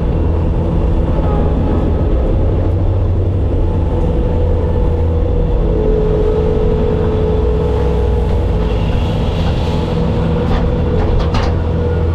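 Bobcat skid steer's diesel engine running steadily under work, with a steady higher tone over the engine note. A few sharp clicks or knocks come near the end.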